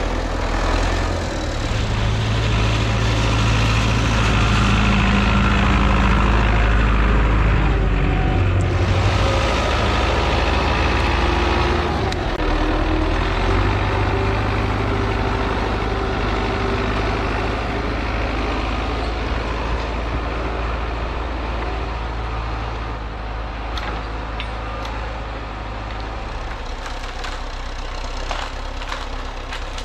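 MTZ-82 tractor's four-cylinder diesel engine running under way, a steady low drone whose engine speed shifts a few times in the first half, then settles.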